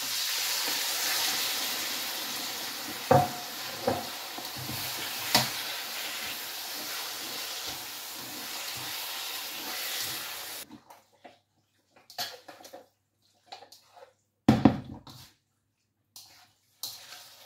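Sliced raw chicken sizzling in hot oil in a wok, with a few clacks of a plastic slotted spatula against the pan. About two-thirds of the way through the sizzling cuts off suddenly, leaving only short scrapes of stirring and one sharp knock.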